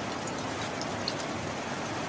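Steady rain falling, with small drop ticks scattered through it.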